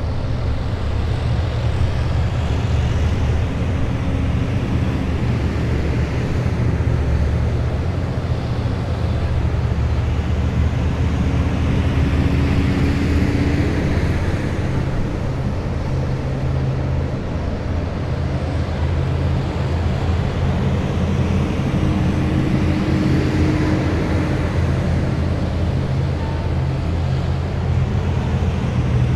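A column of heavy military vehicles driving past, their diesel engines giving a steady deep drone. A higher whine swells and fades twice as individual vehicles go by.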